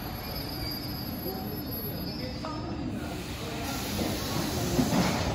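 ED4M suburban electric train rolling slowly into the platform and braking to a stop, with a faint high squeal from the wheels or brakes for the first few seconds.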